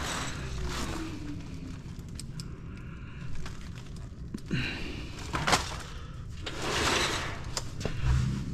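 A long cable being pulled and dragged out of a computer equipment rack: rustling scrapes in a couple of longer swells, with scattered sharp clicks and knocks of the cable and its connectors against the hardware.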